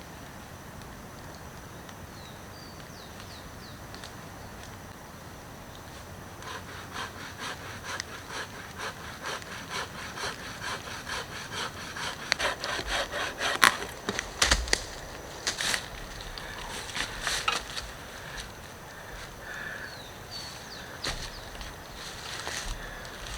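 Hand saw cutting through wood in even back-and-forth strokes, about two a second. It starts about a quarter of the way in, is loudest in the middle and stops a few seconds before the end.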